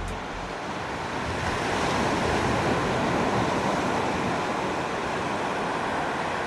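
Ocean surf washing onto a beach: a steady rush of waves that swells slightly about two seconds in.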